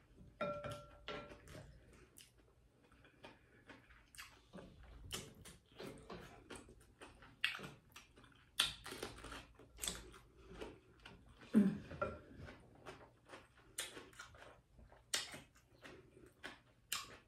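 Close-miked eating sounds: crisp bites into a whole raw cucumber and crunchy, wet chewing, in short irregular crackles.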